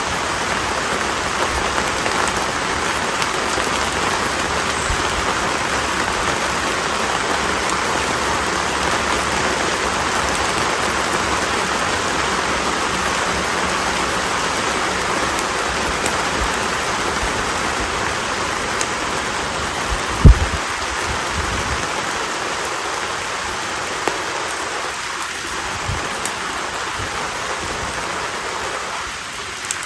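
Konara oak firewood burning in an open fire: a steady hissing crackle with scattered small pops, one loud pop about twenty seconds in, and the hiss easing a little over the last third.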